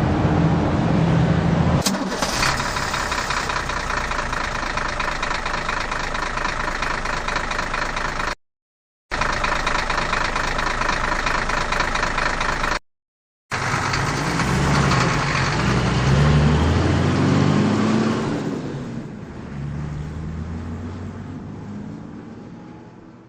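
A vehicle engine running, heard in edited stretches: a low engine hum gives way about two seconds in to a steadier higher whine, broken twice by sudden cuts to silence, then a wavering low engine sound that fades out near the end.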